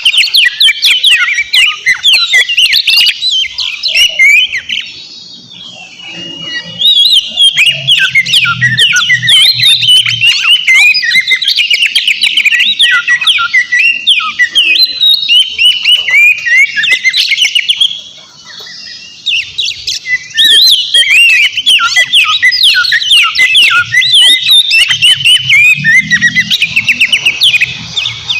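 Oriental magpie-robin in full, loud song: a fast, varied stream of whistled and harsher notes, broken by two brief pauses, about five seconds in and about eighteen seconds in.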